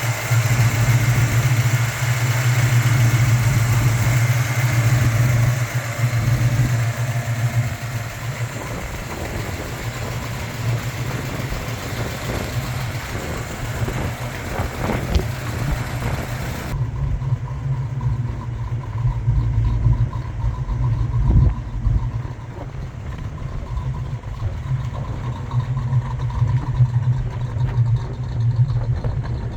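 1964 Chevrolet Chevelle Malibu's engine idling steadily with a throaty exhaust note.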